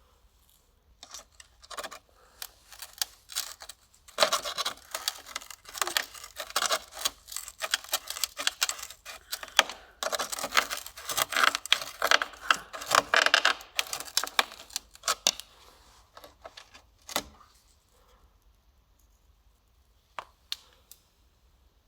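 Hand work with small tools: a dense run of rapid clicking and scraping from about four seconds in until about sixteen seconds, then a few scattered clicks.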